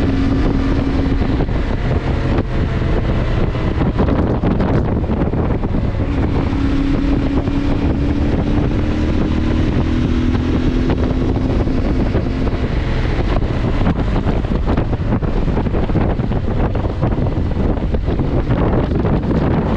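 CFMoto motorcycle engine running while riding, its pitch holding and then shifting slightly up and down, under heavy wind buffeting on the microphone.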